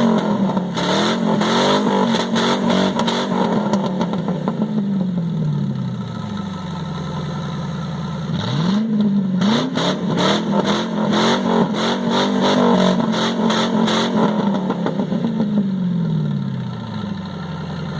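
1999 Ford Crown Victoria Police Interceptor's 4.6-litre V8 revved repeatedly through a muffler-delete exhaust, with the stock mufflers cut off and all four catalytic converters kept. A run of revs settles to idle about six seconds in. Two quick blips follow, then several more held revs, before it drops back to idle near the end.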